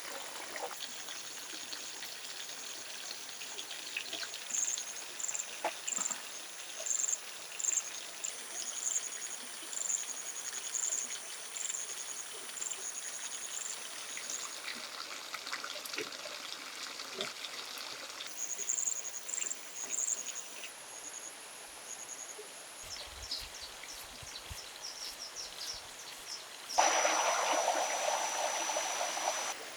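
Water trickling and flowing steadily, with runs of short, high, quickly repeated bird chirps. A louder rushing noise starts suddenly near the end and cuts off just before the close.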